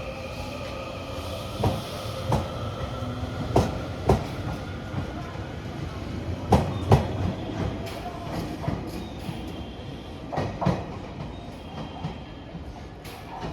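Railway train running over the rails, its wheels knocking over rail joints in pairs of clacks, the gaps between the pairs growing longer, under a steady running hum.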